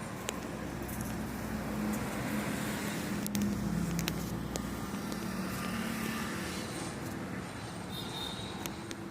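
A motor vehicle engine running, its hum swelling a little louder a couple of seconds in and easing off again, with scattered sharp clicks.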